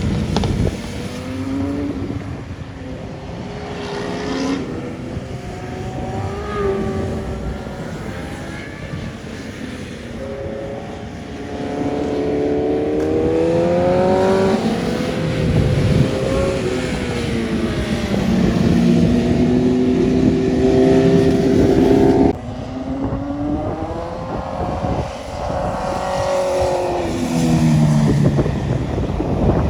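A car engine accelerating hard several times, its pitch climbing and dropping back as it shifts or lifts off, over a steady rumble of road noise. The sound breaks off abruptly about two-thirds of the way through, then picks up again.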